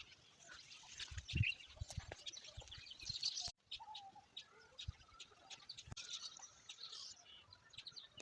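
Small birds chirping and twittering faintly, many short high calls throughout, with scattered soft low thumps.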